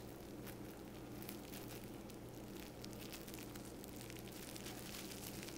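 Plastic wrap crinkling faintly with scattered light clicks as a stuffed chicken breast is rolled up in it, over a steady low hum.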